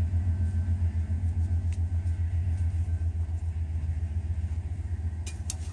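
Low, pulsing rumble of a passing train, fading a little toward the end. A few faint ticks come near the end.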